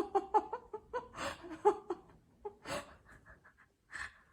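A person's soft, breathy laughter: short chuckles and a few huffing breaths.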